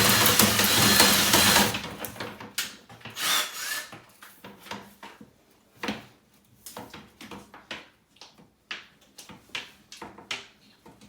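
Power drill spinning a dryer-vent cleaning brush on flexible rods, running steadily and then stopping just under two seconds in. Scattered light clicks and knocks follow as the rod sections are handled and taken apart.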